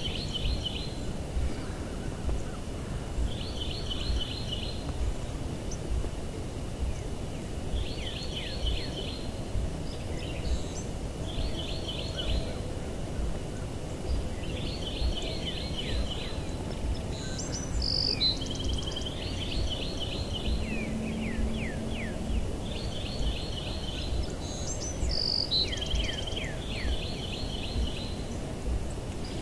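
A bird calling over and over, each call a short series of quick descending notes about every three to four seconds, with a second, higher-pitched bird now and then, over a steady rushing of wind on the microphone.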